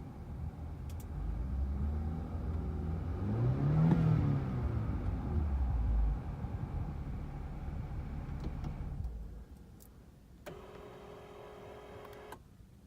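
A BMW 528i's N20 2.0-litre turbocharged four-cylinder engine idling, then revved once: the pitch rises from about two seconds in, peaks near four seconds and falls back to idle by about six seconds. Around nine seconds the engine sound drops away, and near the end a steady tone sounds for about two seconds.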